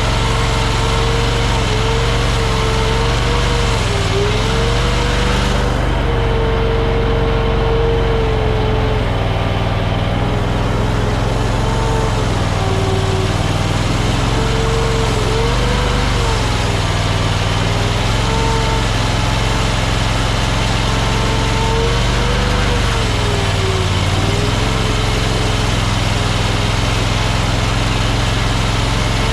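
AGT Industrial LRT23 mini tracked skid steer running steadily at working throttle, with a whine that dips in pitch briefly and recovers several times, around 4, 13, 16 and 24 seconds in.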